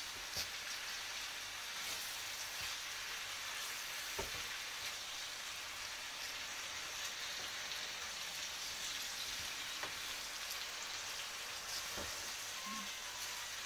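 Sliced zucchini frying in oil in a pan: a steady sizzle, stirred with a wooden spatula, with a few light knocks.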